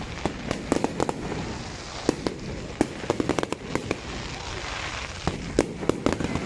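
Fireworks going off: many sharp bangs and crackling pops at irregular intervals, often several in quick succession, over a steady background rumble of distant bursts.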